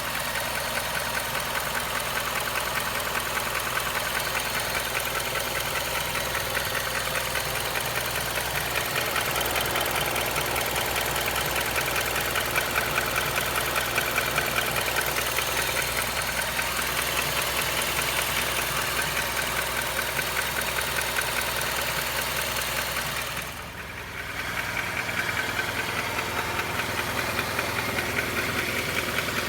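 Honda CR-V engine running with a rapid, steady ticking/clacking from the engine, of unknown cause. The sound dips briefly about three-quarters of the way through, then returns.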